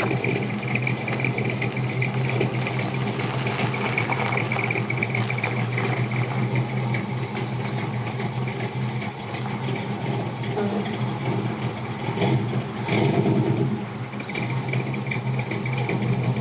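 1963 GMC Fleetside pickup's 350 stroker V8 running steadily through its custom side-exit exhaust with Walker mufflers, swelling louder briefly about thirteen seconds in.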